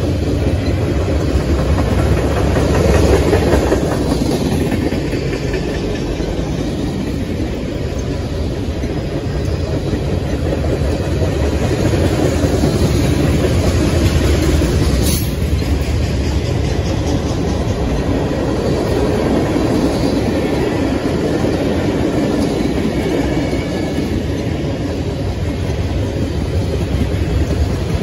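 Freight train cars, tank cars and boxcars, rolling past close by: a steady rumble of steel wheels on the rails. There is a brief sharp sound about halfway through.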